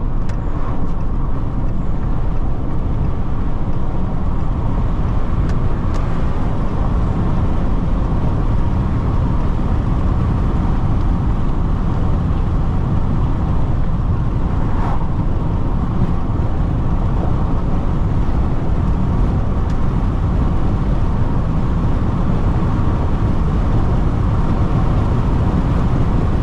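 Steady road and wind noise inside a Jeep Renegade diesel SUV cruising at high highway speed, around 150 km/h, with the windows open.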